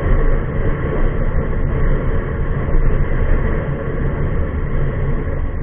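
KTM Duke 250 single-cylinder motorcycle riding at speed: a steady, loud rumble of engine and wind noise over the microphone.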